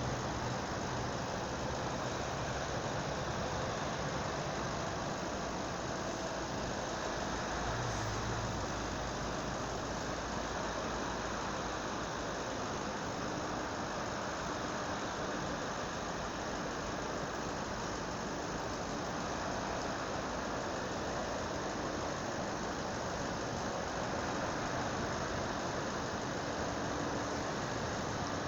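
Steady road and engine noise of highway traffic, an even rush with no distinct events.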